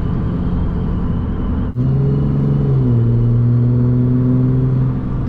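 Pickup's 5.9 Cummins inline-six turbo-diesel running while the truck is driven, a steady deep drone. It drops out for a moment just under two seconds in, then comes back strongly, and its pitch steps down slightly about three seconds in.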